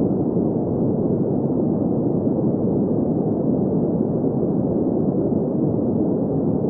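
Steady green noise: an even, unchanging hiss-like rush centred in the middle range, with little treble.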